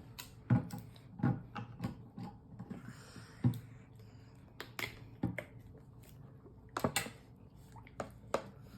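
A baby eating: irregular wet smacks and small taps, about a dozen, the loudest about half a second, a second and a quarter, three and a half and seven seconds in.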